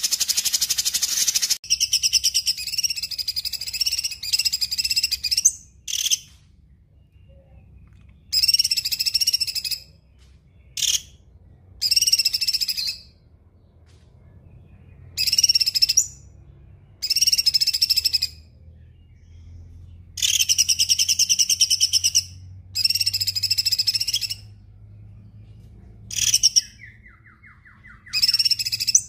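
A songbird repeats one high, buzzy, trilled phrase about ten times, each lasting one to two seconds with short gaps between. Near the end a short falling run of ticks comes in a little lower.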